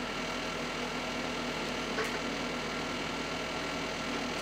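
Steady background hum and hiss, with one light tap about two seconds in.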